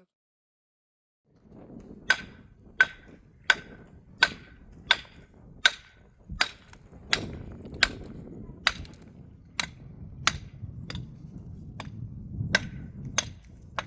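A hand tool striking a hard material repeatedly and steadily, about one and a half blows a second, each with a short metallic ring. The blows start about two seconds in, after a brief silence.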